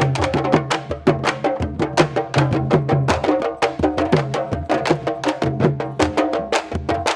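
Candombe drums playing together: rapid, continuous stick and hand strokes on drumheads mixed with sharp wooden clicks of sticks on the drum shells, over pitched low drum tones.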